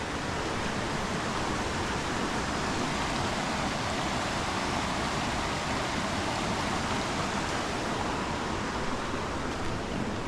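Steady rushing of a river in strong flow after the wet season.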